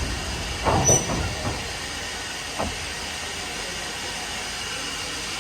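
Standard-gauge steam train running slowly, heard from the open wagon it is pulling: a steady hiss and rumble, with a few short knocks and clanks from the rolling stock around a second in and once more a little later.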